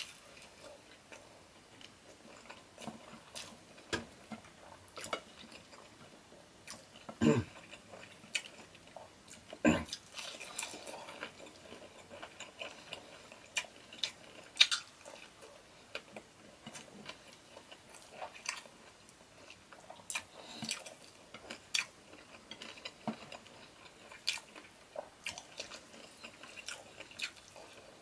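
Close-up mouth sounds of a person eating by hand: chewing with wet smacks and frequent short clicks, and two louder sharp sounds about a quarter and a third of the way in.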